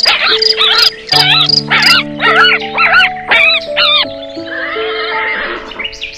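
A quick run of short, high animal calls, each rising and falling in pitch, about two a second over background music; after about four seconds they give way to a single longer, rougher call.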